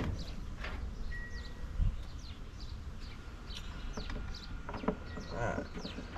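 Small birds chirping again and again with quick falling notes, over a low steady rumble. Two dull thumps, about two seconds and five seconds in.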